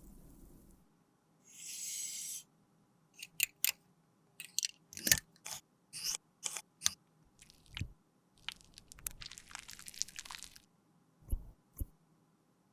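Close-up handling sounds from repairing a broken lipstick: a short hiss, then a quick run of crisp clicks and crunches, a longer rustling scrape, and two soft knocks near the end.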